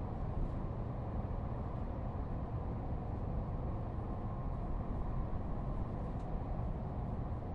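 Steady low rumble of a moving train heard from inside the carriage.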